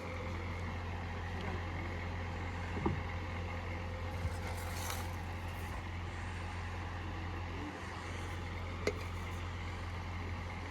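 Bucket truck's engine running steadily with a low hum, with a couple of faint knocks from the work, one about three seconds in and one near the end.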